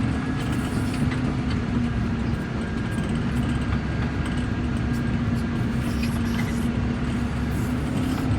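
Heavy-equipment loader's engine running steadily as the machine drives along, a continuous low rumble with a steady hum and a few light clicks and rattles.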